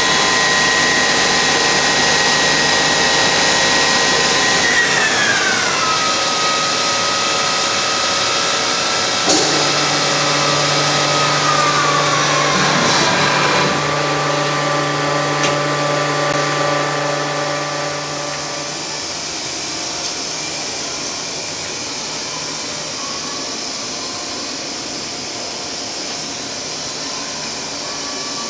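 Colchester Tornado 100B CNC lathe running, its spindle drive giving a high steady whine. The whine glides down in pitch at about 5 s and again at about 12 s as the spindle slows, then stops. A low hum comes in with a click partway through and fades, leaving a quieter steady machine hiss near the end.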